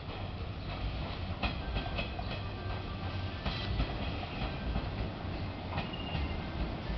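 Hanshin Railway electric train running slowly into the station over points, with a steady low rumble. Its wheels clack sharply a few times across the rail joints, and a faint thin squeal is heard in the middle.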